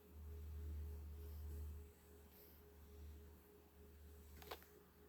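Near silence: room tone with a faint low hum and a thin steady tone, the hum a little louder for the first two seconds, and a soft tick near the end.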